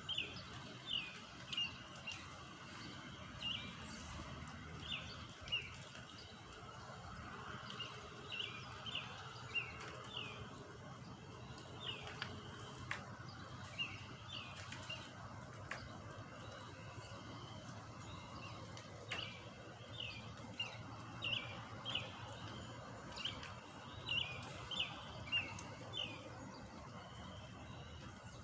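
Small birds chirping: many short, sharp chirps in irregular clusters over a steady low background hum.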